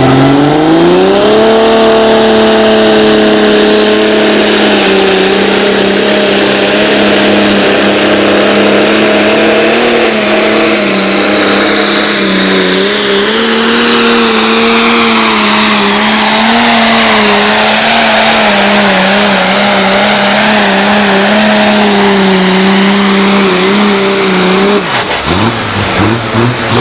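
A pulling tractor's engine revs up and then runs flat out at high, steady revs as it drags the weight sled down the track. A thin, high whistle rides over it from about four seconds in. Near the end the engine note drops away as the run ends.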